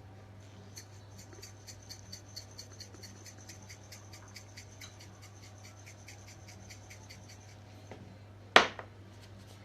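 Black pepper being dispensed into a marinade bowl: a rapid, even run of small scratchy clicks, about four or five a second, for several seconds. A single sharp knock comes near the end.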